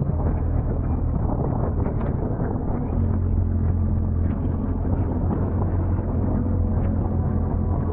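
BMW R1250 GS Adventure's boxer-twin engine running steadily while the motorcycle is ridden, with wind noise over the microphone.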